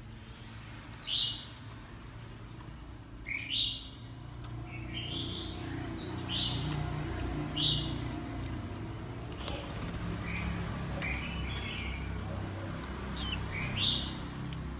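Oriental magpie-robin giving short, sharp chirps, one about every second, each a quick sweep in pitch, over a low background hum that grows louder partway through.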